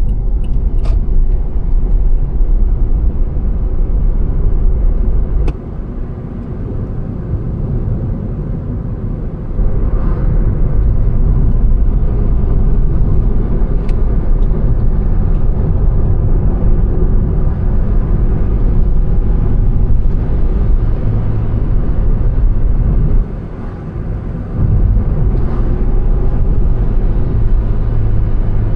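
A car driving along a road: a steady low rumble of engine and tyre noise. It drops off twice for a few seconds, and a few sharp ticks stand out.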